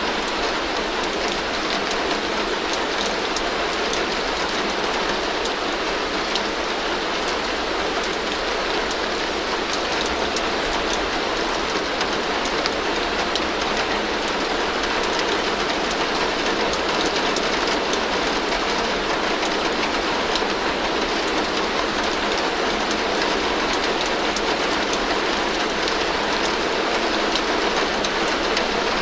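Heavy rain falling steadily on a tin roof: a dense, even hiss peppered with many fine drop ticks on the metal.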